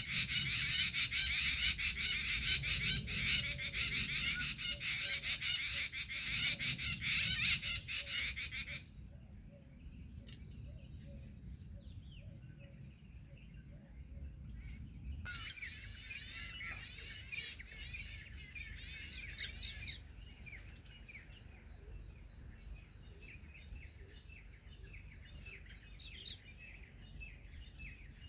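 A crowd of small birds chirping and chattering, dense and loud for the first nine seconds, then cutting off suddenly. Fainter chirps follow, with another burst of rapid chirping from about fifteen to twenty seconds in and scattered calls after.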